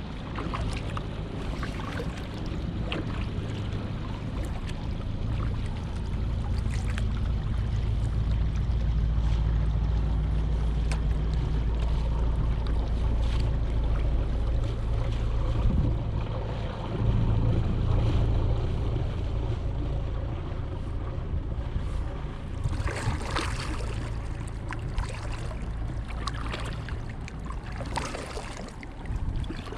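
Kayak paddling on open water: splashes and water sounds over a steady low rumble, with a cluster of louder splashes near the end.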